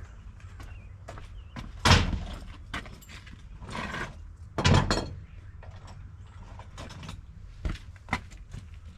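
Deck demolition work: two heavy wooden knocks about three seconds apart, with a rasping scrape between them and lighter taps and clicks around them.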